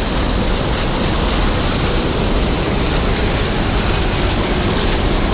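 Steady, loud rushing of a jungle creek waterfall: an even wash of falling water with no single splashes standing out.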